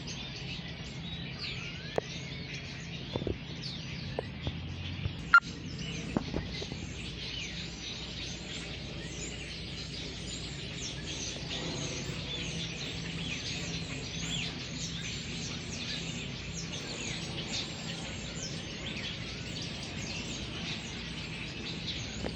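A large flock of small birds chirping nonstop in a dense, intense chorus, which the filmer takes for starlings. A few sharp knocks sound in the first six seconds, the loudest about five seconds in.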